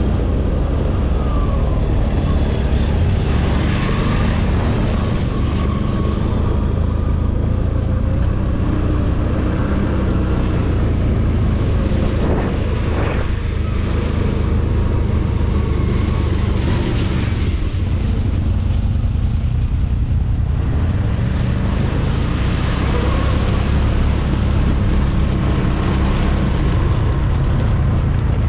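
ATV engine running steadily under way, its pitch shifting slowly with throttle, with wind buffeting the microphone.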